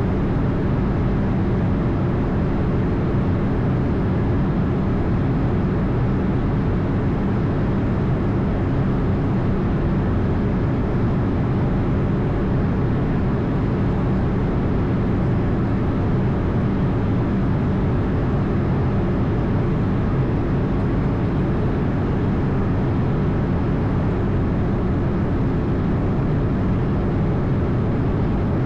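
Steady cockpit noise of an Airbus A220 under way: its Pratt & Whitney geared turbofan engines and airflow combine in an even rumble and hum with no change.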